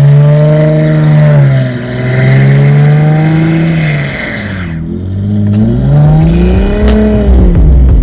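Dodge Challenger SXT Plus V6 with an aftermarket exhaust, revving and easing off several times so its note swells and falls. A hiss runs for a couple of seconds in the middle and cuts off suddenly, and a few sharp clicks come near the end.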